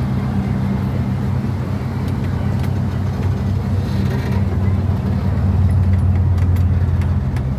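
Engine of a miniature amusement-park train running steadily while riding, a low drone that grows a little louder about six seconds in, with a few faint clicks.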